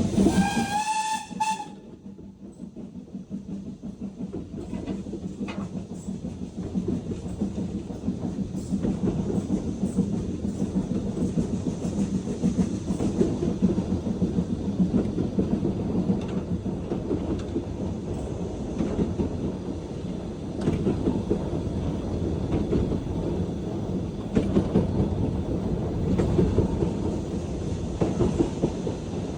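A steam locomotive whistle, a short blast that rises slightly in pitch and stops about a second and a half in, from BR Standard Class 4 tank engine 80151. The train then keeps running with a steady rumble and the clickety-clack of its wheels on the rails.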